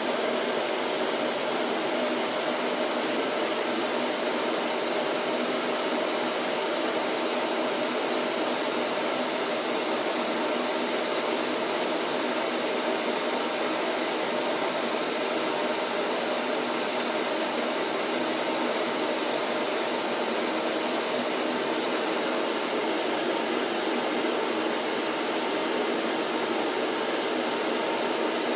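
Vacuum cleaner running steadily, an even, unchanging rush of motor and airflow noise with a faint steady hum in it.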